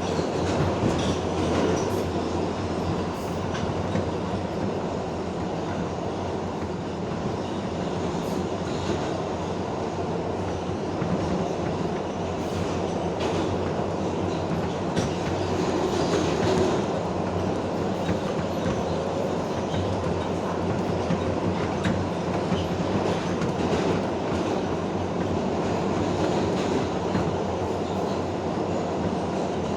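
An R142A subway train running at speed, heard from inside the car: a steady rumble and rush of wheels on rail, with occasional faint clicks over rail joints.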